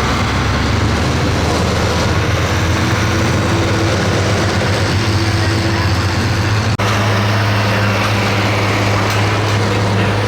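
Pro stock pulling tractor's turbocharged diesel engine running at a steady, unchanging pitch. The sound drops out for an instant about two-thirds of the way through.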